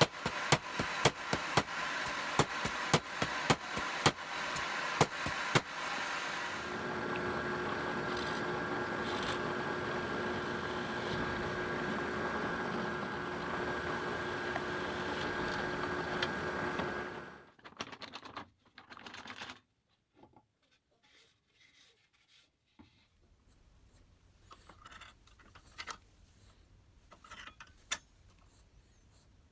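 Hammer blows on a steel anvil, about two a second for roughly six seconds, pounding the heated ends of stainless steel rods flat, over a steady hiss. A steady whooshing noise with a faint hum follows and stops suddenly about 17 seconds in, leaving only scattered light clicks.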